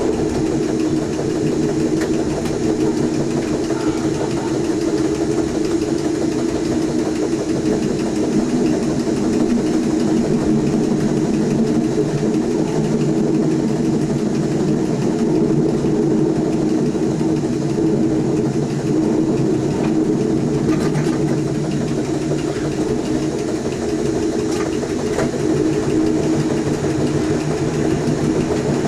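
Electric passenger train running steadily along the line, heard from inside the driver's cab: a continuous hum and rumble of motors and wheels on the rails.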